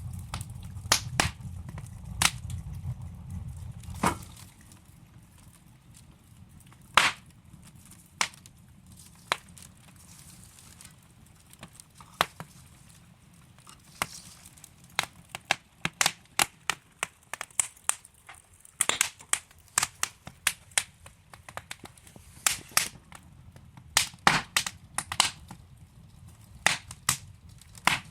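Burning wood logs in a fireplace, crackling with sharp irregular pops, thickest in the second half. A low rumble sits under the first four seconds and stops suddenly.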